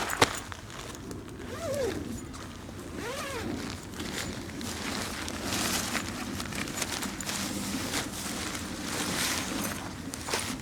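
Rustling and handling noises of camping gear being moved about, with a sharp click just after the start and two short squeaks a second or so apart.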